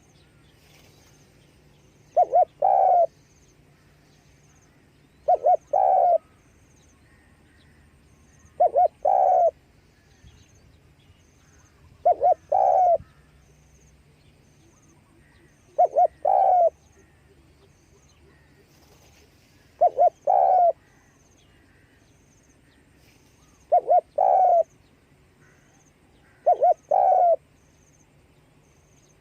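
Spotted dove cooing. It repeats the same phrase, two short notes and a longer one, about every three and a half to four seconds, eight times over.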